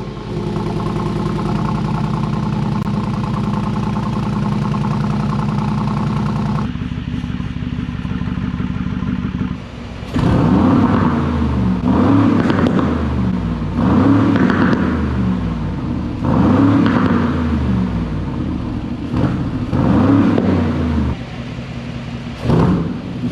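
Mercedes G550's twin-turbo 4.0-litre V8 through a valved catback exhaust, idling steadily and then dropping to a quieter, lower idle about seven seconds in. From about ten seconds in it is revved again and again, a rise and fall in pitch about every two seconds.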